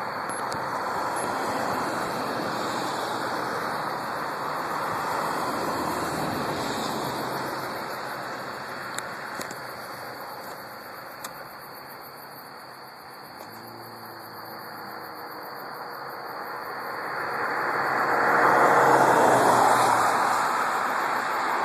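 Road traffic: vehicles passing with a steady tyre-and-engine noise that fades down, then builds as one passes close near the end.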